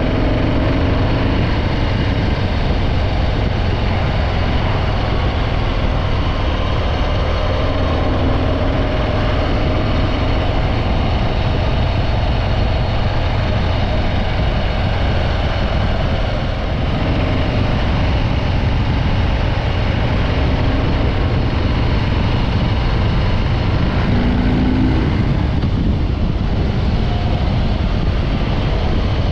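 Harley-Davidson Breakout 114's stock-exhaust Milwaukee-Eight 114 V-twin running steadily while riding, with a brief slight dip about halfway through.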